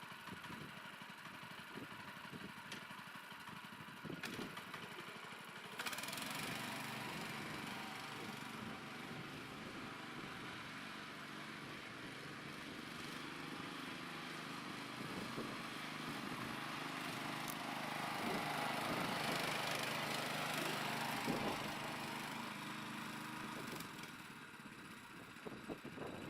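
Small engine of a homemade mini tractor running steadily. It gets louder about six seconds in, louder again in the middle, and eases off near the end.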